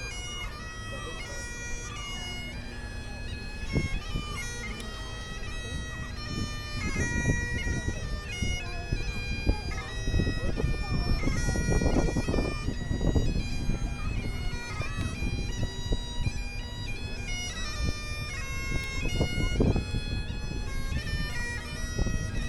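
Highland bagpipes playing a tune, the chanter stepping from note to note over the steady drones, against a noisy background that grows louder about ten seconds in.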